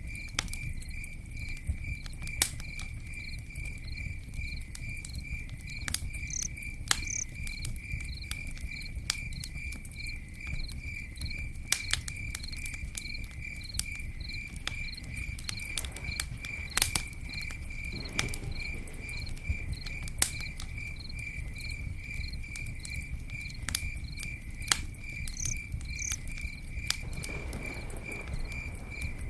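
Campfire crackling with irregular sharp pops over a low rumble of flames, while a cricket chirps steadily and evenly throughout.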